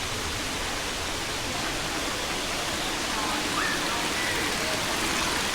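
Waterfall rushing: a steady, even roar of falling water, with faint distant voices under it.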